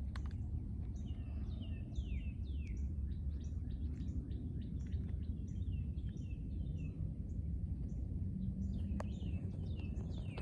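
Small songbirds singing, with many quick chirps that sweep downward in pitch. A steady low rumble runs underneath.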